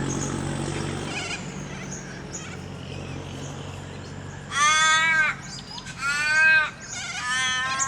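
Crow, Perth's Australian raven, calling: three loud, drawn-out harsh caws about a second apart, starting about halfway through, the last one longer and slightly falling in pitch.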